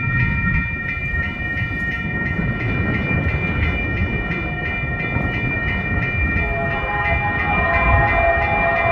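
Freight train passing with a steady rumble, overlaid by several steady high-pitched tones that begin suddenly just before and hold throughout. A lower, wavering tone joins about two-thirds of the way through.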